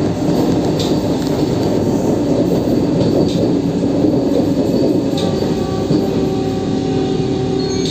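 Vande Bharat Express electric trainset running at speed, heard from inside the coach: a steady rumble of wheels on rail with a few faint clicks, and thin faint tones coming in over the second half.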